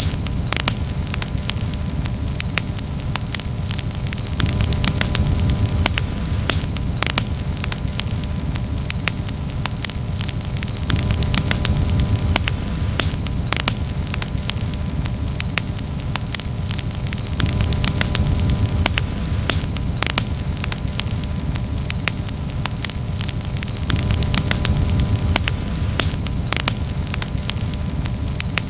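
Wood campfire burning, crackling with many sharp pops scattered irregularly over a steady low rumble.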